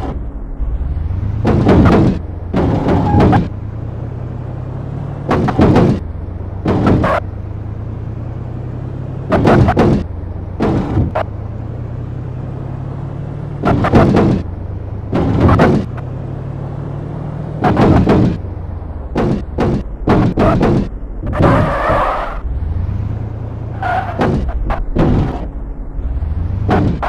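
Car engine running at low revs while the car's wheels and underside strike a speed bump. The strikes are loud, short knocks and scrapes, often in pairs a second or so apart.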